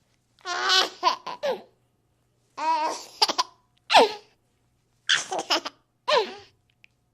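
A young child laughing in several short bursts.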